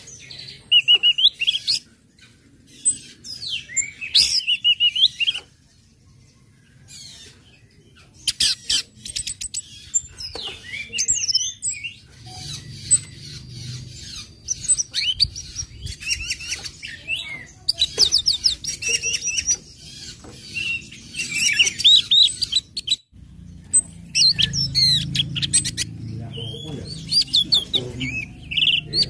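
Orange-headed thrush (anis merah) singing in bursts of rapid chirping and trilling phrases with high whistled notes, broken by short pauses.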